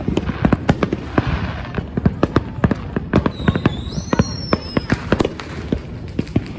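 Rapid crackling volley of consumer fireworks: dense, sharp bangs and pops several times a second. A high whistle rises in pitch partway through.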